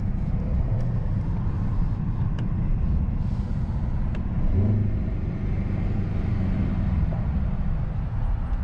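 Inside the cabin of a 2024 Mercedes-AMG S63 driving along: a steady low drone of the V8 engine mixed with road and tyre noise, with the engine note showing up briefly about halfway through.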